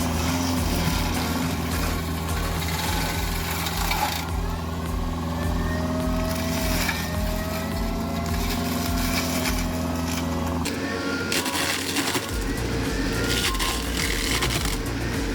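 Heavy wood-processing machine running: a steady low engine drone with whines that slide up and down. The sound changes about ten and a half seconds in.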